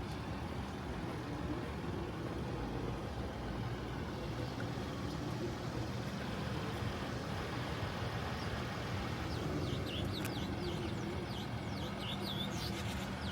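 A vehicle running with a steady low rumble. Several short high chirps come in over the last few seconds.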